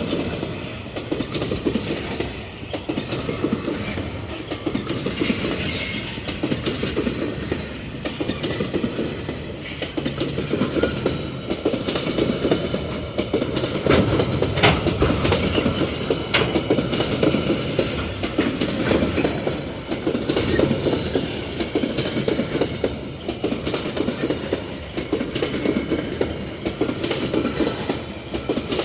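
Freight train wagons rolling past with a steady rumble, the wheels clicking now and then over the rail joints.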